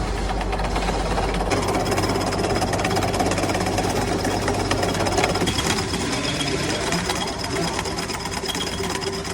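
Metalworking machine running, with a dense rapid clatter over a steady hum. The deep hum drops away about a second and a half in, and the sound changes again about halfway through.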